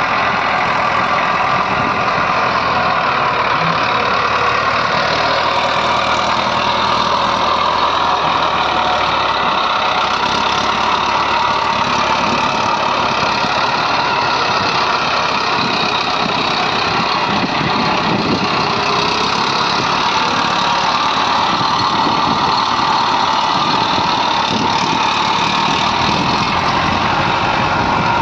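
Diesel engine of a backhoe loader or tractor running steadily, loud and unbroken.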